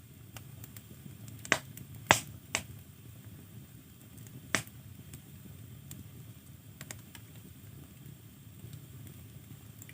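Firewood burning in a fireplace, crackling with sharp pops at irregular intervals, four loud ones in the first five seconds and fainter ones after, over a low steady background.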